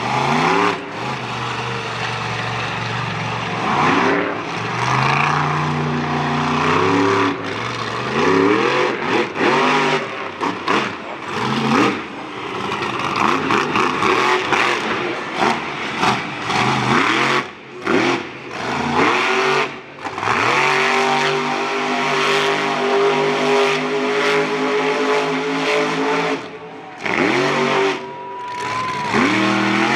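Monster truck engine revving hard, its pitch repeatedly climbing and falling as the throttle is worked, with a few brief sudden drops in level.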